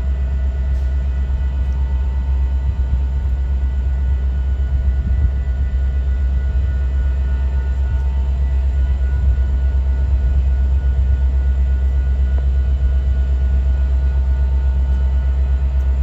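A train running: a steady, loud low rumble with faint steady whining tones above it, unchanging throughout.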